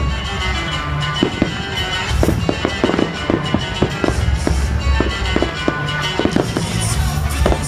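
Fireworks going off in a rapid run of sharp bangs and cracks, starting about a second in, over loud music with a heavy bass.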